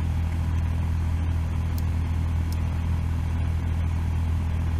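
Isuzu D-Max pickup engine running at a steady idle, a loud, even low drone.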